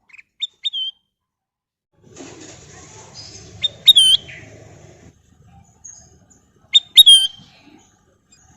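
A kutilang emas bulbul calling in short, sharp whistled notes, each ending in a falling slur. The notes come in three clusters: just after the start, about four seconds in and about seven seconds in.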